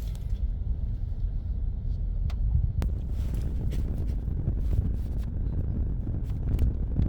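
Steady low rumble of a car driving onto the ferry, with a few light clicks.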